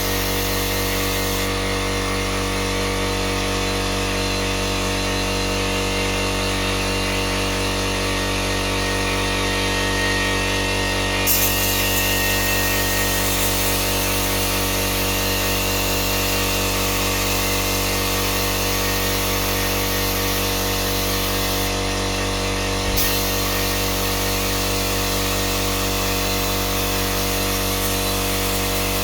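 An electric power tool running steadily at a constant pitch, with no pauses.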